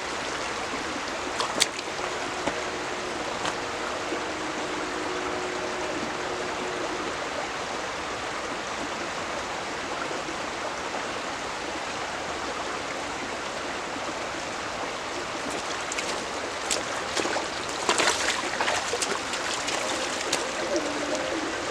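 Steady rush of a flowing stream or river, with a sharp click about a second and a half in and a few louder splashes near the end.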